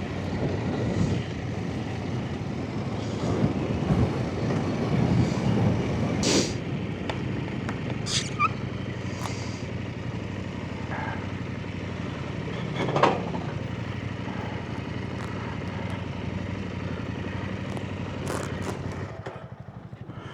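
Off-road motorbike engine running at low speed, with a few sharp knocks along the way. Near the end it drops back to a quieter, evenly pulsing idle.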